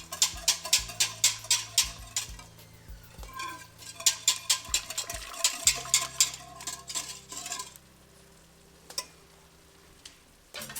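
A wire whisk beating cooked tur dal into a paste, with quick clicking strokes at about three to four a second. The strokes come in two spells and stop about three seconds before the end, leaving a couple of single taps.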